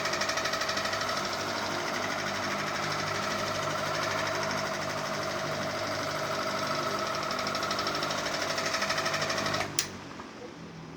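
Ceiling fan running with a steady hum and a fast, even rattle. It stops abruptly with a click near the end, then fades away.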